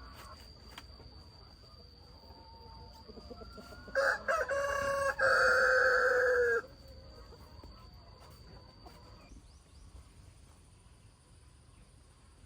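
Rooster crowing once, about four seconds in: a few short choppy notes, then a long held final note, for about two and a half seconds.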